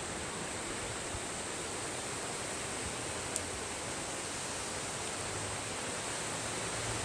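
Strong wind blowing steadily through trees and bushes, a continuous rushing hiss, with one brief click a little past the middle.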